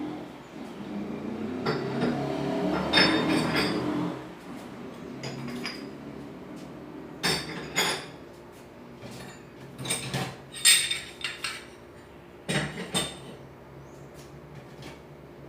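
Metal stove parts and tools being handled: a few seconds of rattling and scraping, then a series of sharp metallic clanks and clinks in small groups.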